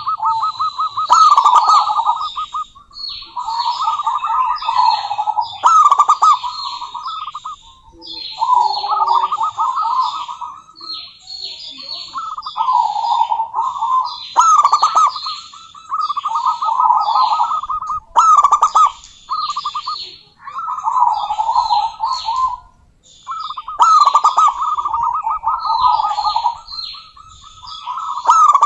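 Zebra dove cooing in repeated phrases of rapid staccato notes, each phrase lasting a second or two and starting again about every two seconds. Quick high chirping runs over it.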